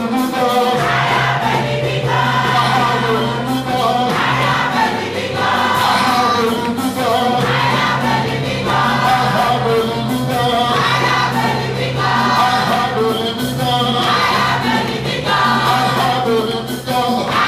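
Choir and congregation singing a gospel praise song over steady instrumental accompaniment, in repeated sung phrases about two seconds long.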